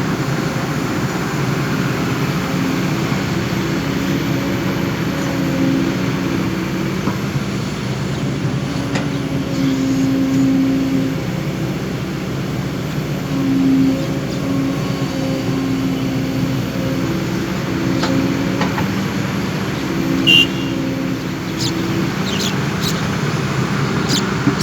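Kobelco excavator's diesel engine running steadily, its note swelling and easing as the hydraulics take load. A few short sharp clanks come near the end.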